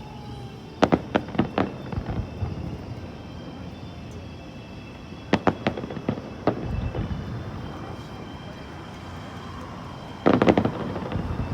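Aerial fireworks exploding: a quick cluster of sharp bangs about a second in, another cluster around five and a half seconds, and a rapid run of bangs near the end.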